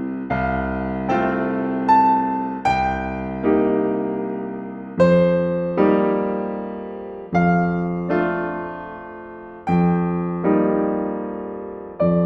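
Slow, gentle solo piano music: single notes and chords struck about once a second and left to ring and fade.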